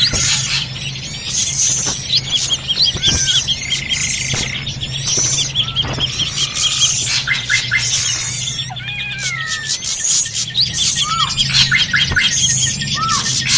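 Bird-lure recording of drongos calling noisily among a dense chorus of other birds: fast chattering chirp trains, swooping whistled notes and sharp high squeaks, all overlapping. A low steady hum runs underneath.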